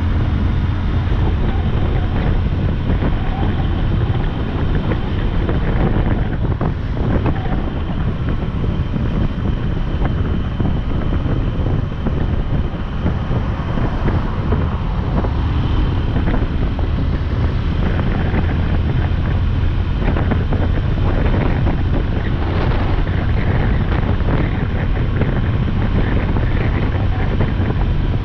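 Motorcycle riding at speed: wind rushing and buffeting over the microphone, over the steady low drone of the engine.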